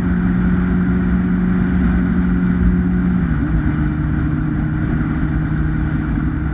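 A 2008 Kawasaki ZX-10R's 998cc inline-four engine running at a steady, even note. Its pitch drops slightly a little past halfway through.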